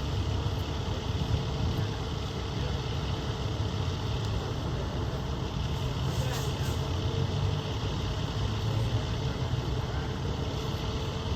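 A vehicle engine idling steadily, with a low, even hum over street noise.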